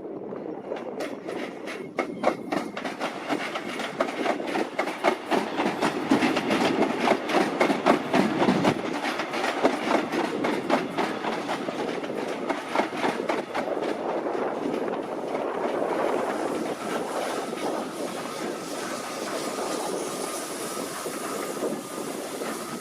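A train passing at speed, its wheels clattering rapidly over rail joints and points, the clatter giving way after about fifteen seconds to a steady rushing noise with a faint thin whine.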